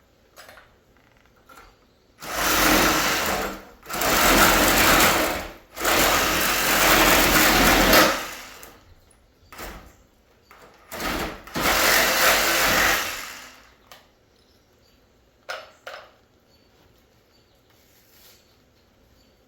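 Handheld power tool run in several bursts of one to two seconds each, with short knocks and clanks between them.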